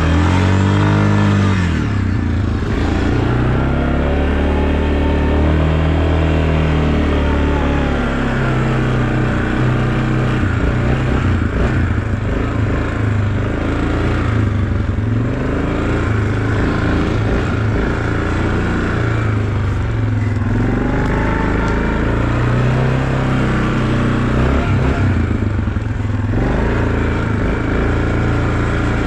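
A motor vehicle's engine being driven, its pitch rising and falling repeatedly as it speeds up, shifts and slows.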